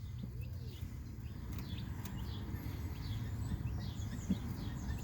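Newly hatched chicks peeping: many short, high, falling chirps in quick succession, over a steady low hum.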